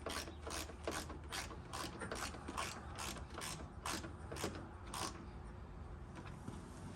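Small ratchet with a T30 Torx bit clicking steadily, about two to three clicks a second, as it drives a headlight mounting screw; the clicking stops about five seconds in.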